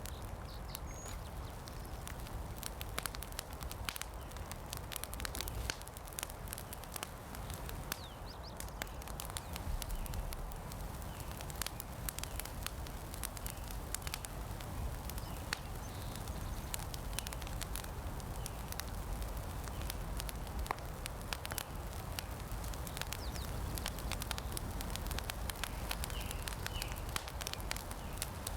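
Campfire crackling, with frequent sharp irregular pops over a steady low rumble.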